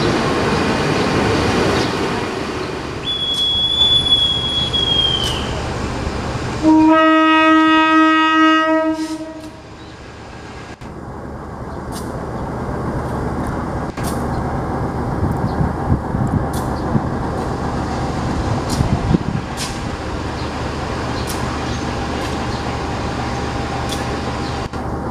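Passenger coaches rolling past with a rumble and a high wheel squeal of about two seconds. Then the CC 201 diesel locomotive's horn sounds one blast of about three seconds. After that the coaches roll by again, gradually louder, with scattered sharp clicks from the wheels on the rails.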